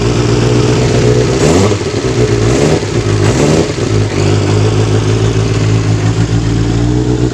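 Kawasaki GPz 400 motorcycle engine running. The throttle is blipped from about a second and a half in, the pitch rising and falling for a couple of seconds, then it settles back to a steady idle.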